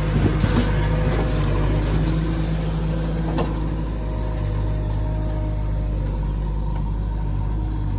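Heavy-machinery diesel engine running steadily at a constant speed, with a few knocks in the first second and one sharp click about three and a half seconds in.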